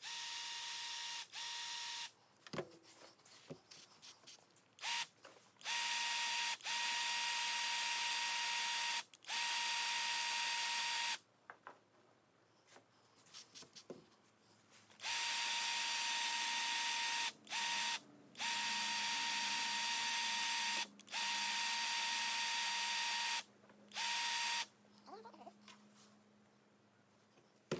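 A powered grease gun running in repeated bursts, from under a second to several seconds each, as grease is pumped into the fittings of a swather's bearings to push out wash water. The bursts are a steady high whine that starts and stops sharply, with handling clicks in the gaps.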